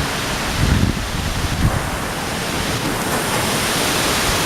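Heavy storm rain with strong wind: a steady loud hiss, with wind gusts thumping on the microphone about a second in and again soon after.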